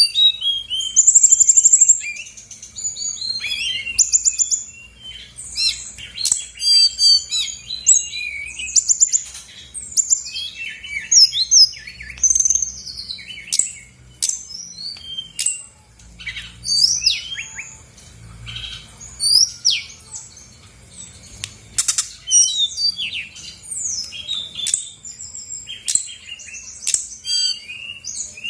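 Brown-chested jungle flycatcher (sikatan rimba dada coklat) singing continuously: a rapid, varied string of high chirps, whistled sweeps and short buzzy trills with barely a pause.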